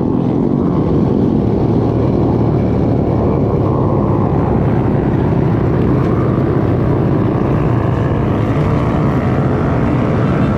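Pit bikes and mini motorcycles running together on a group ride, a steady engine drone at an even loudness.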